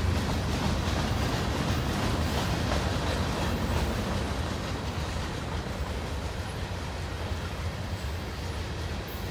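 Freight cars of a long manifest train, boxcars and covered hoppers, rolling past: a steady rumble of steel wheels on the rail that eases off slightly toward the end.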